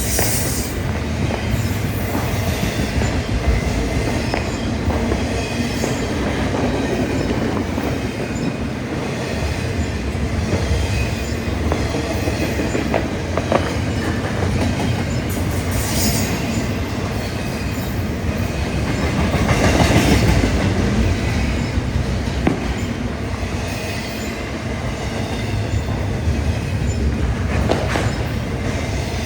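Freight cars of a BNSF double-stack container train rolling past: a steady rumble of steel wheels on rail with clicking over the joints and a few brief wheel squeals. The train grows louder for a moment about twenty seconds in.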